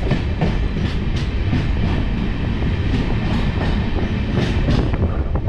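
Passenger train coach rolling along a station platform: a steady rumble and hiss of the running train, with repeated clacks of the wheels over rail joints.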